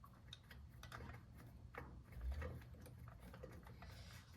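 Faint scattered clicks and light metallic ticks as exhaust manifold bolts are threaded in by hand into an aluminium cylinder head, with a soft low thump about two seconds in.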